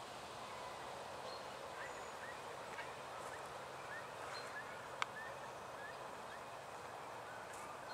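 Faint bird calls, a string of short rising chirps, over a steady rush of wind. A single sharp click about five seconds in.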